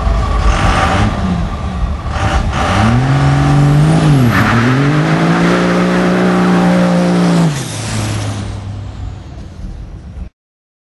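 Dodge pickup's Cummins straight-six diesel engine revving up, dipping for a moment, then held at high revs for about three seconds before it backs off and fades. The sound cuts off suddenly near the end.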